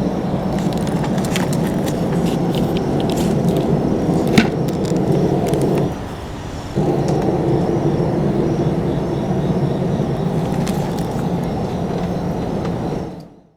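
An unidentified steady low drone, the strange noise residents reported, holding level apart from a brief drop about six seconds in, with faint scattered clicks over it.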